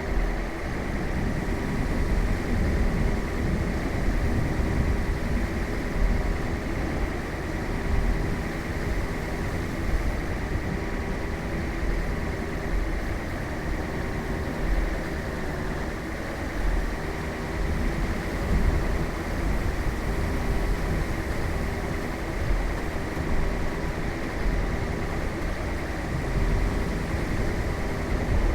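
A vehicle driving: a steady low rumble of engine and road noise with a faint steady whine.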